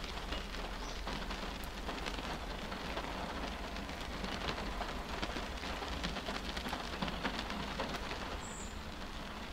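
Steady rain striking a car's windshield glass, heard from inside the car: an even hiss with the taps of single drops scattered through it.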